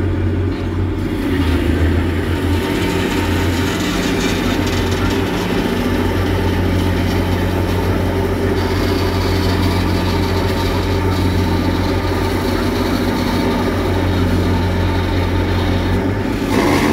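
Excavator's diesel engine running steadily at a constant speed, with a short rush of noise near the end.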